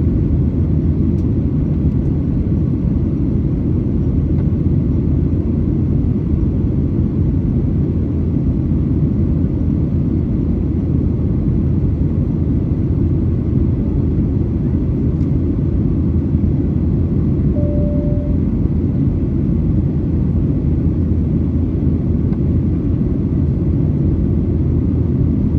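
Steady low rumble inside the cabin of a Boeing 737-900ER, its twin CFM56-7B engines running, heard from a seat near the back. A brief faint tone sounds once, about two-thirds of the way through.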